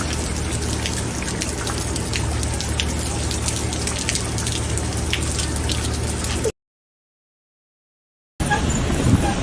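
Steady rain with many individual drops tapping close by, over a low steady hum. About six and a half seconds in, it cuts off to dead silence; after about two seconds, rain noise resumes with a stronger low rumble.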